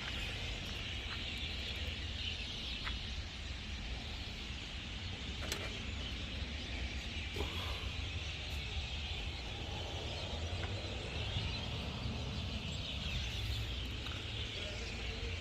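Refrigerator compressor used as an air pump, running steadily and pressurising the car's air-conditioning lines for a leak test. It makes a low hum, with a steady high hiss over it and a few faint clicks.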